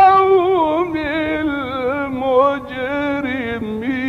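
A male Quran reciter chanting in the melodic mujawwad style, holding the word "al-qawm" in a long, ornamented melisma whose wavering pitch sinks gradually lower.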